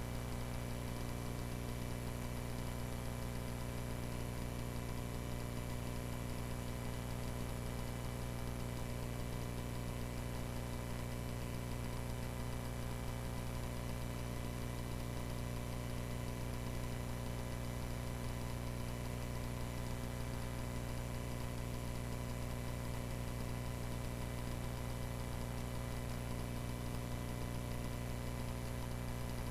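Cessna 140A's single piston engine and propeller droning steadily in flight, heard from inside the small cockpit, with an even, unchanging pitch and level.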